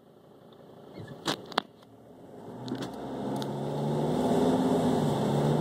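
Car engine heard from inside the cabin, growing steadily louder as the car pulls away and gathers speed. Two sharp clicks come a little over a second in.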